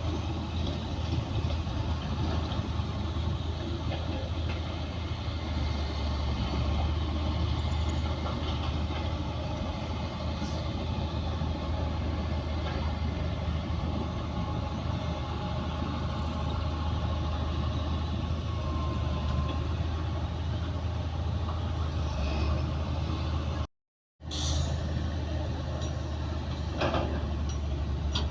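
Bulldozer's diesel engine running steadily with a deep, constant hum. The sound cuts out for about half a second near the end, then returns with a few sharp metallic knocks.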